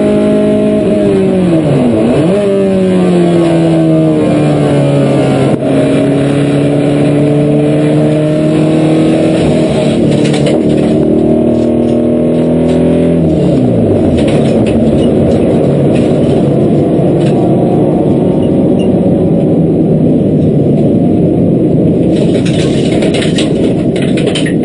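Honda Civic EG6's B16A four-cylinder engine running hard, its pitch rising and falling with the revs. About 13 seconds in, the pitch drops and the clean engine note breaks up into a rough, noisy sound as the engine blows.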